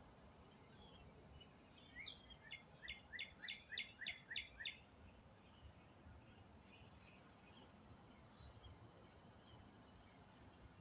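A bird sings a quick run of about nine repeated chirped notes, about three a second, starting a couple of seconds in, over a steady high insect trill. Otherwise near silence.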